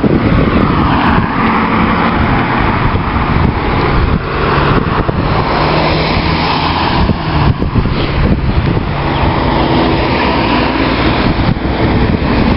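Car driving along a road: steady engine hum and tyre noise, the engine tones shifting a little with speed.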